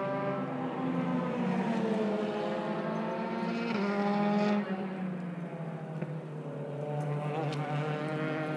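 Car engine running: a steady droning hum that shifts pitch in a few steps, dropping lower about halfway through.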